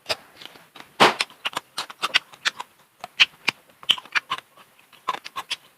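Crunchy chewing of chicharon bulaklak (deep-fried pork intestine): a loud crunch about a second in, then a run of sharp, irregular crackles as it is bitten and chewed.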